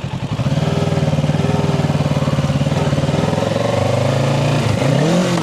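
Kawasaki Ninja 650's parallel-twin engine running as the motorcycle rides along, a steady pulsing note whose pitch swings briefly near the end.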